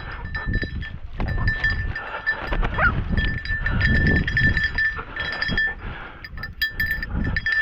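Small bell on a hunting dog's collar jingling irregularly, loudest from about three seconds in and again near the end, over rustling in field cover.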